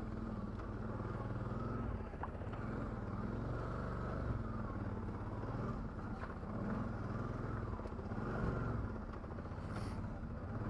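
ATV engine running at low speed, a steady drone with slight rises and falls in pitch.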